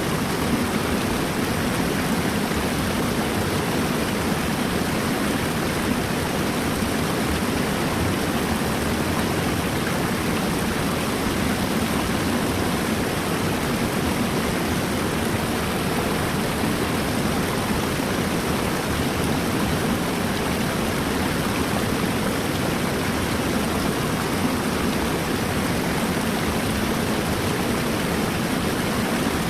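River water rushing steadily, an even, unbroken flow with no separate splashes or changes.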